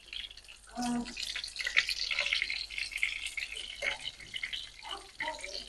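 Breaded chicken pieces sizzling and crackling in hot oil in a frying pan, the sizzle swelling about a second in. Short clicks of a metal fork and spoon against the pan sound as the pieces are turned.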